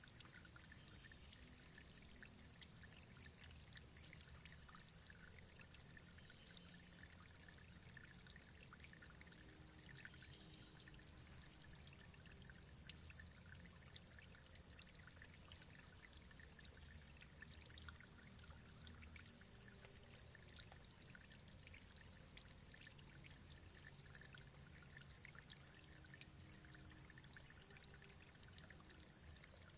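Faint running water, a steady trickling stream with many small splashes and drips, under a steady high-pitched tone.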